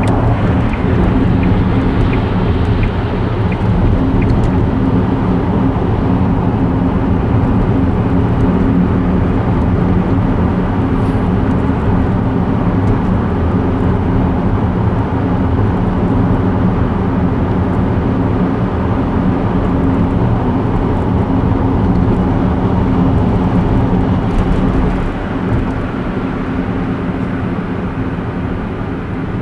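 Car driving steadily on a highway: continuous engine and tyre noise with a low hum. It eases slightly about 25 seconds in.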